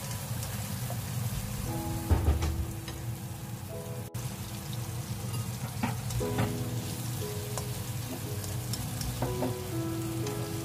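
Tomato and shrimp sizzling and frying in a hot pan, a steady hiss, with a few knocks and scrapes of the spatula against the pan, the loudest a dull thud about two seconds in. Soft background music with held notes plays underneath.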